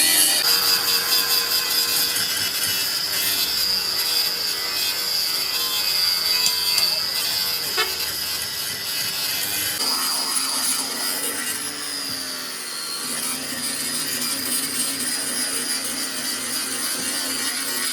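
A power tool running under load, a continuous hiss with a steady high whine, its sound shifting about ten seconds in.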